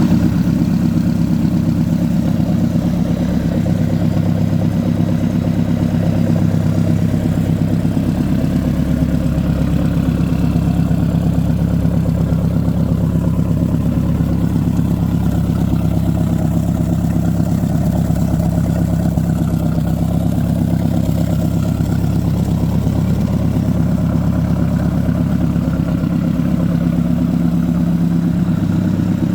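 1998 MerCruiser 3.0LX four-cylinder marine engine running steadily, with no revving.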